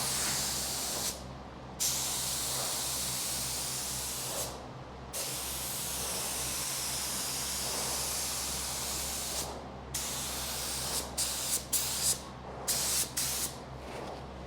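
Air-powered paint spray gun spraying epoxy primer: long hissing passes with brief pauses, then several short trigger bursts near the end.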